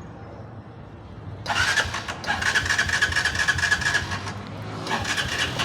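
Taro GP V3 250cc motorcycle being started: a loud pulsing starter-and-engine sound begins about a second and a half in and runs for nearly three seconds, with a second shorter burst near the end as the engine settles into a low steady hum.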